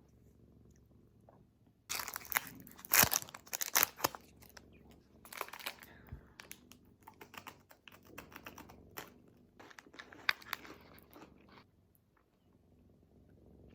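Crinkling and rustling of something crinkly being handled, in irregular bursts with sharp crackles, starting about two seconds in and stopping near the end.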